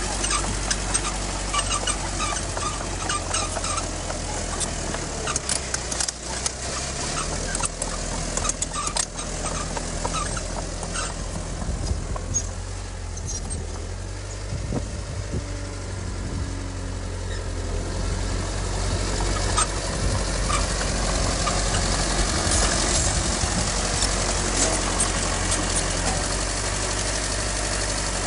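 Diesel engine of heavy earthmoving machinery running steadily, with scattered metallic clanks and rattles. It gets louder about two-thirds of the way through.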